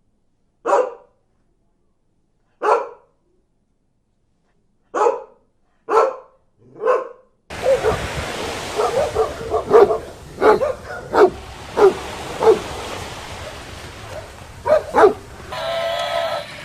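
A dog barking: five single barks a second or two apart, then, about seven seconds in, a quicker run of barks over a noisy background.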